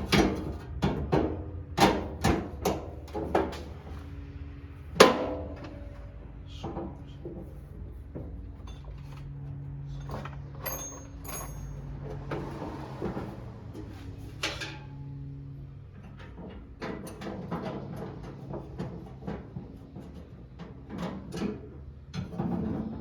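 Hand tools and small parts clicking, knocking and clattering as they are handled during hand repair work, in quick runs of knocks near the start and again near the end, with a faint low hum in between.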